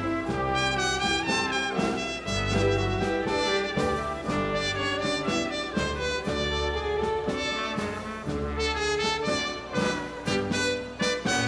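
Live Latin dance orchestra playing, with trumpets and trombones carrying the melody over a steady rhythm section.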